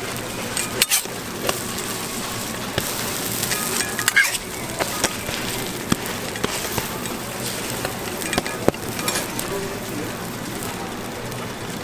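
Food sizzling steadily on a hot griddle, with sharp metallic clicks and scrapes now and then, loudest about a second in, around four seconds in, and near nine seconds.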